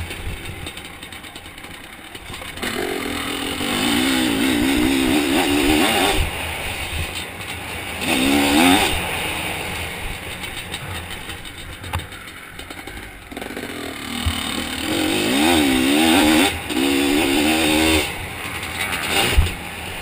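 Zabel 700 two-stroke sidecar motocross engine revving hard in repeated bursts, its pitch climbing and dropping as the throttle opens and closes, with a fast wobble in pitch during the loudest runs. Wind noise runs underneath, and a few sharp knocks come through, one near the start, one about midway and one near the end.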